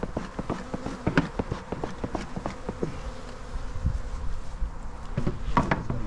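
Honey bees buzzing around an open-air hive, a steady hum with many short ticks and knocks scattered through it.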